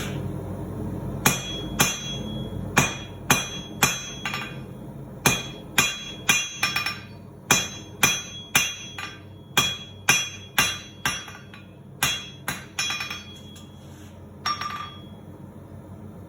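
Blacksmith's hand hammer striking hot steel on an anvil, about two blows a second in uneven runs, each blow ringing briefly. The blows stop after about thirteen seconds, followed by one lighter ringing tap.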